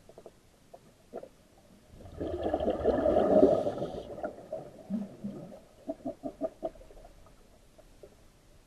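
A seal calling: one loud, rough, drawn-out call about two seconds in, followed by a run of short grunts.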